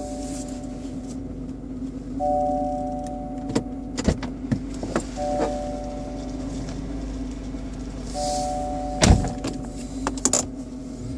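BMW 120i E87 engine running with a steady hum, and a motor-like whine that comes on for about a second roughly every three seconds: an abnormal noise that an oil change has not cured, which the owner traces to behind the air cleaner box. Several sharp clicks or knocks sound in between.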